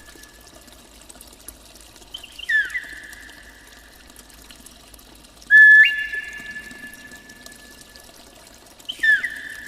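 Three clear whistled notes about three seconds apart, each sliding quickly down or stepping in, then held on one pitch and fading over a second or two. The loudest begins suddenly about halfway through. A faint, steady, watery hiss lies underneath.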